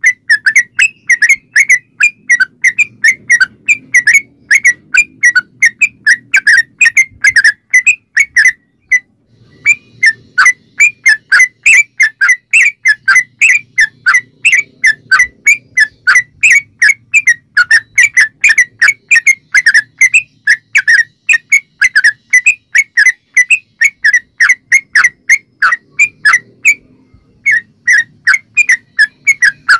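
Yellow-vented bulbul song played as a lure: a long, rapid run of short, bright, whistled chirps, several a second, broken by brief pauses about a third of the way in and near the end.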